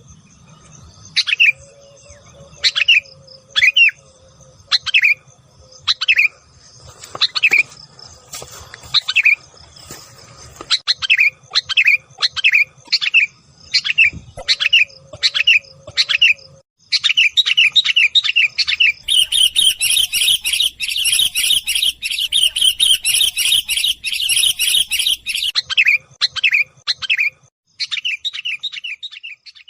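Sooty-headed bulbul (kutilang) calling in agitation, as used to lure birds: sharp, short calls at about one a second, breaking about two-thirds of the way through into rapid, dense chattering that is loudest near the end, with a brief pause before a last few calls.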